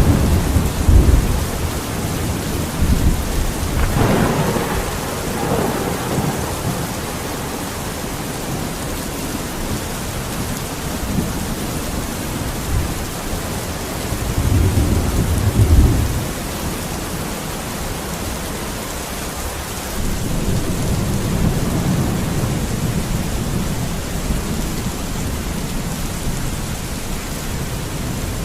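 Steady rain with low rumbles swelling now and then, the loudest about fifteen seconds in.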